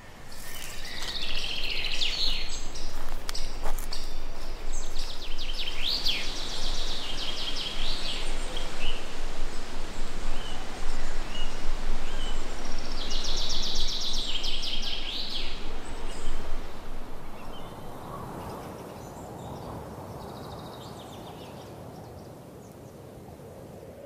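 Wild birds chirping and giving rapid trills over a steady outdoor hiss; the bird calls thin out after about sixteen seconds, leaving a quieter background hiss.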